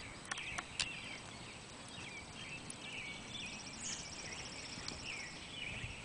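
Several small birds chirping and calling in short, sliding notes, with a fast high trill about three seconds in. A few sharp clicks come in the first second.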